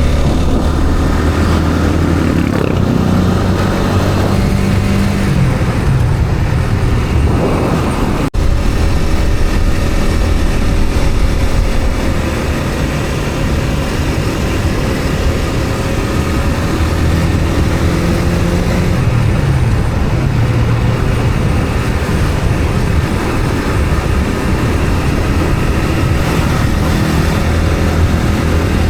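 Motor vehicle on the move: a steady engine drone with road noise, the engine pitch drifting gently up and down with speed.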